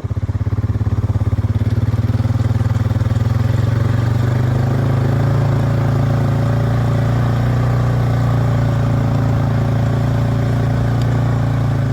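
Farm vehicle engine running steadily at a constant speed while towing an irrigator hose out across a paddock.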